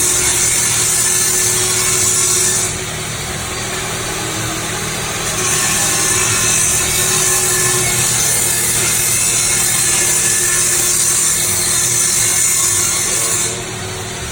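Power tool cutting through exhaust pipe for a mid muffler delete, running in two long stretches with a short easing-off about three seconds in, and stopping near the end.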